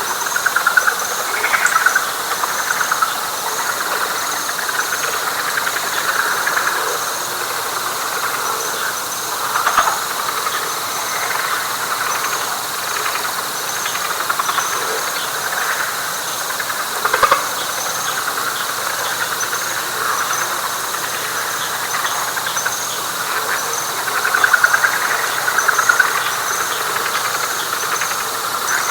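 Night chorus of frogs and other animals in a wet pine flatwoods: a dense pulsing chorus with a steady high trill and a row of high, regular chirps above it. A few louder single calls stand out twice in the middle.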